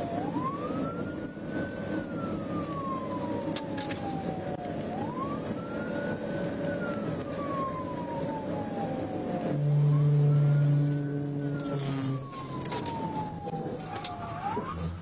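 Police siren on a wail, sweeping slowly up and falling back about every five seconds, over steady engine and road noise at high speed. About ten seconds in, a loud low horn sounds for about two seconds.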